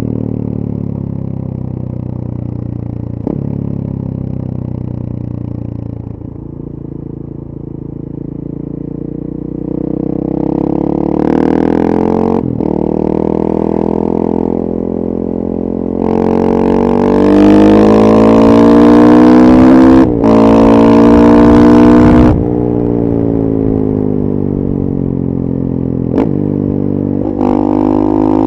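2014 KTM 450 EXC supermoto's single-cylinder four-stroke engine through a full FMF 4.1 exhaust, ridden: it runs low and even at first, then accelerates hard through several gears, each upshift a brief dip in the revs, before the revs fall away on closing the throttle and pick up again near the end.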